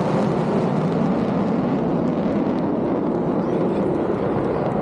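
Steady jet noise from an F-35A Lightning II's Pratt & Whitney F135 engine in flight: a dense, even rush with no clear rise or fall.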